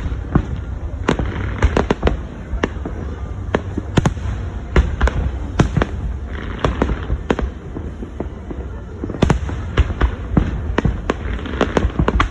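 Fireworks display going off: sharp bangs at uneven intervals, sometimes several within a second, with a crackling haze after some of them.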